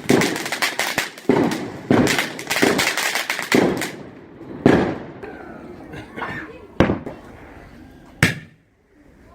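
Fireworks exploding: a quick run of sharp bangs with crackling between them, thinning after about four seconds to single bangs roughly two seconds apart.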